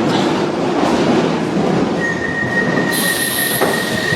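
London Underground Piccadilly line train running on the rails at the platform, a steady rumble of wheels and train. About halfway through, a steady high-pitched squeal sets in and holds.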